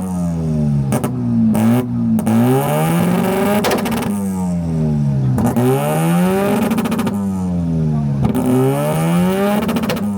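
A car engine revved hard again and again, its pitch climbing and falling every second or two, with a few sharp exhaust pops in the first few seconds.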